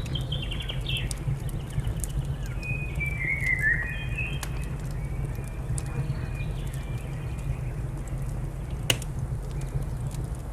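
Wood fire crackling with scattered sharp pops, one loud pop near the end, over a steady low rumble, while small birds chirp and twitter through the first half and again briefly later.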